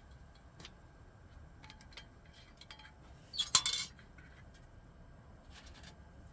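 Glass clinking: a few light ticks, then a louder cluster of clinks about three and a half seconds in.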